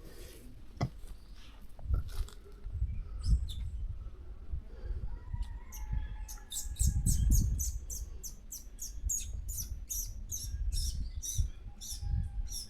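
A bird calling in a fast, even run of short, sharp, high chirps, about three a second, starting about halfway in, over low rumbling on the microphone.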